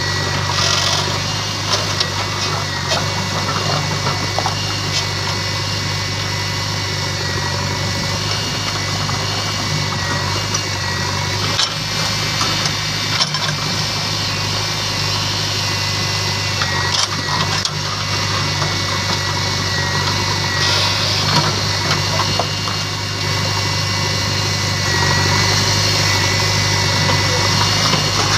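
Diesel engines of a backhoe loader and tractors running steadily, with a thin steady whine above and a few scattered knocks.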